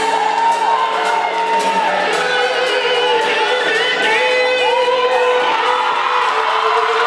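Live band playing a pop song with a singer, amplified in a hall, with occasional whoops from the audience.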